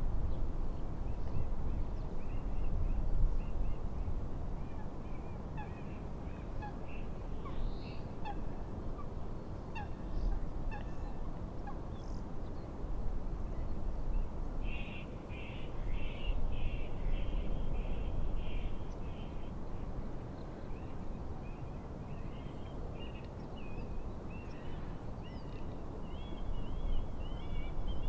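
Steady low rumble of wind and water, with birds calling over it in short scattered notes and a run of quick repeated calls about halfway through.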